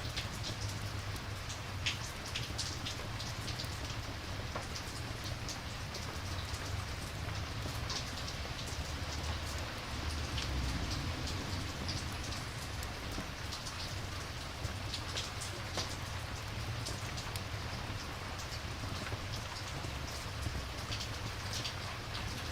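Steady rain ambience with a campfire, scattered sharp pops and crackles sounding every second or so over the even hiss of the rain.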